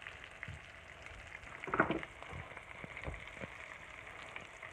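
Butter sizzling and crackling in a hot frying pan, a steady spitting hiss. A louder short sound stands out just under two seconds in, and there are a few dull knocks.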